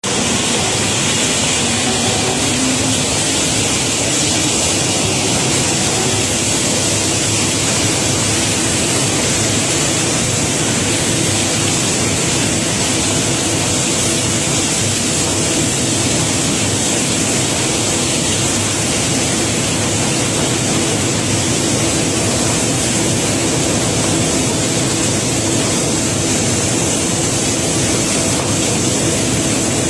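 Cobblestones pouring off a barge in a continuous, steady rushing stream, with a low steady hum underneath.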